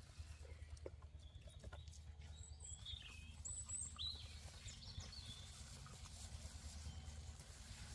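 Birds chirping faintly, a string of short high calls mostly in the middle stretch, over a low steady hum, with a few soft clicks.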